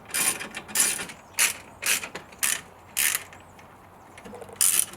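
Ratchet tool driving screws back in: its pawl rasps on each back-stroke, about two strokes a second. The strokes pause for about a second and a half before one more stroke near the end.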